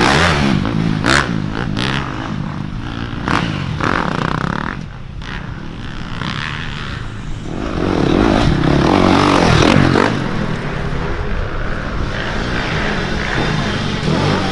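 Dirt bike engines revving up and down as the bikes ride through the course, with a few sharp clicks early on. The engines get louder from about eight seconds in.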